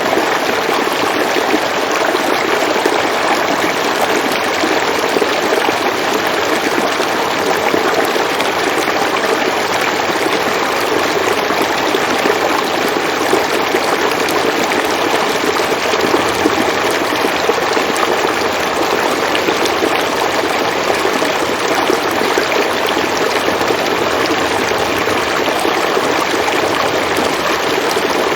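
River water flowing over rocks, a steady rushing and babbling that keeps an even level throughout.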